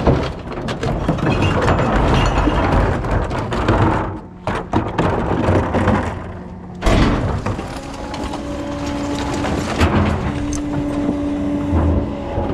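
Rear-loader recycling truck at work: loud mechanical running with knocks and clatter. The noise drops briefly about halfway through, then comes back with a steady whine.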